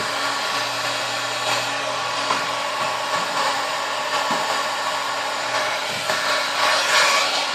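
Hair dryer blowing hot air steadily onto wet leather to dry it.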